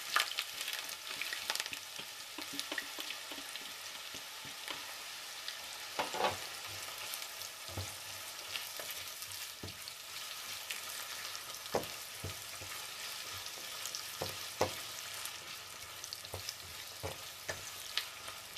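Chopped onion and garlic sizzling steadily in hot olive oil in a frying pan, stirred with a silicone spatula that knocks against the pan now and then.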